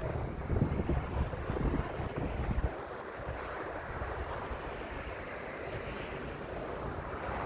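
Wind buffeting the microphone: uneven low rumbles for the first few seconds, then a steadier, quieter rushing hiss.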